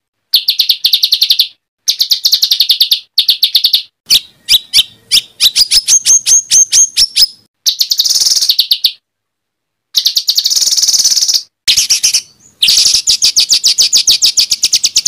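A songbird sings loud, fast bursts of repeated sharp notes in short phrases split by brief silences. Around the middle comes a run of separate rising whistled notes, and near the end a long rapid trill.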